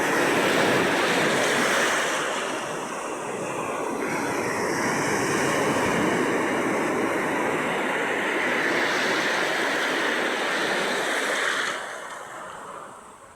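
Sea waves washing onto the shore: a continuous rushing surf that swells and eases, then dies away near the end as a wave recedes.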